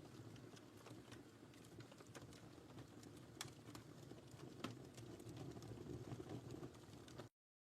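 Wood fire in a fireplace crackling faintly, a soft steady rumble with scattered sharp pops and snaps. The sound cuts out to silence near the end.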